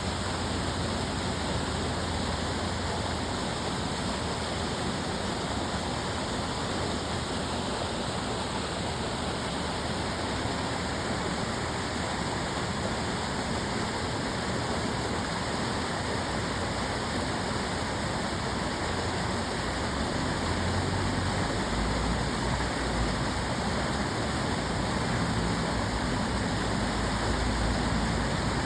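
Steady rush of water flowing along the Tamagawa Aqueduct channel, with a low rumble that grows stronger over the last several seconds.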